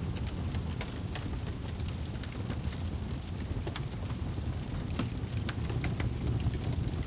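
Wood fire burning, a steady low rumble of flame with irregular sharp crackles and pops, several a second.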